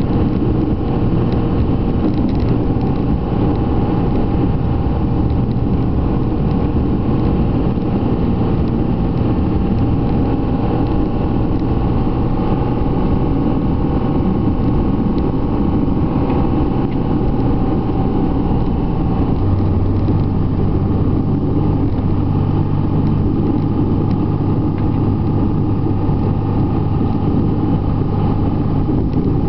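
Dodge pickup's Cummins turbo-diesel engine running steadily while plowing snow, its low drone changing pitch about twenty seconds in.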